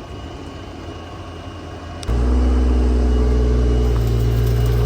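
Engine machinery running. About two seconds in it becomes suddenly much louder with a steady low hum, as if an engine starts up close by or comes into earshot.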